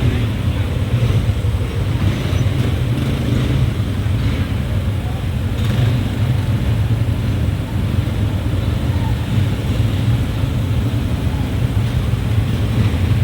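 Moving vehicle, a steady low rumble of engine and driving noise with no breaks.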